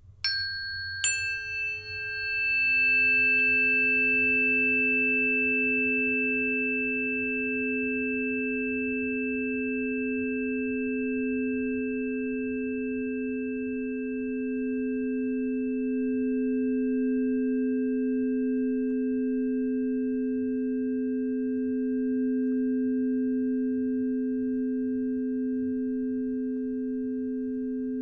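Two tuning forks struck about a second apart: a bright clang fades within a few seconds, and two low pure tones ring on steadily and fade only slowly.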